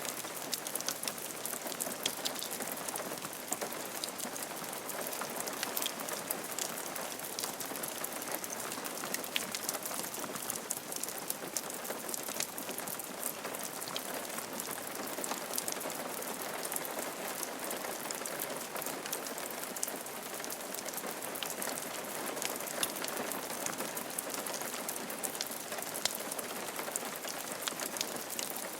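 Steady rain falling on a roof, a continuous hiss with many small drop ticks.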